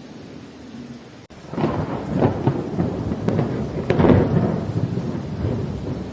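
Thunder over steady rain. About a second in, a rolling rumble with sharp cracks builds, peaks around four seconds in, then slowly dies away under the rain.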